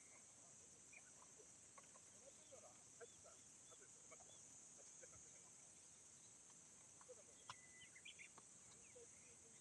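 Quiet rural ambience: a steady high insect drone with short bird calls and faint clicks scattered through it.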